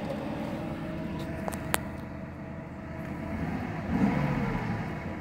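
Mercedes-Benz W140 400 SEL's V8 running steadily at low revs, heard from inside the cabin, with two light clicks about a second and a half in. Near the end the engine note swells as it begins to pull harder.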